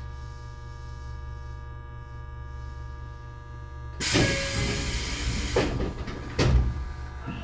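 Tobu 20400-series electric train standing at a station with a steady electrical hum. About four seconds in, its air-operated passenger doors open with a loud hiss of air lasting under two seconds, followed by a second, shorter hiss about a second later.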